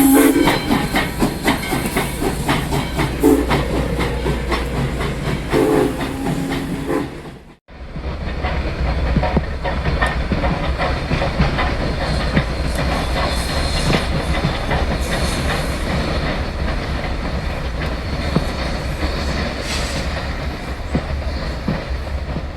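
A train's whistle sounds three times in the first six seconds over the train's running noise. After a sudden break, the train rolls past with a steady rumble and wheels clattering over the rail joints.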